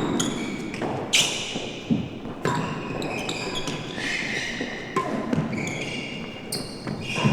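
A real tennis rally: a series of sharp knocks as the ball comes off rackets, walls and floor, echoing in the enclosed court. High tones ring on after several of the knocks.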